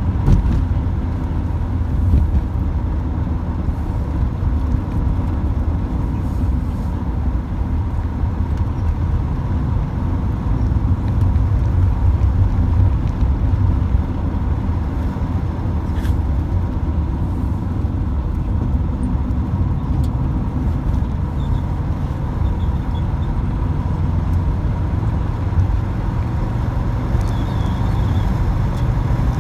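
Volkswagen bus with a newly installed engine being broken in, driving at road speed: a steady low drone of engine, road and wind noise.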